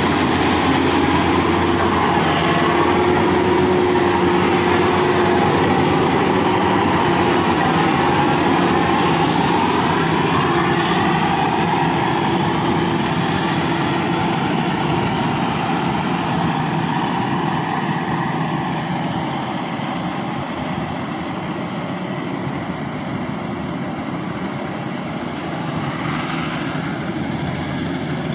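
Rice combine harvester engine running steadily under load, with a higher whine that slowly rises and falls in pitch; it eases off a little in loudness about two-thirds of the way through.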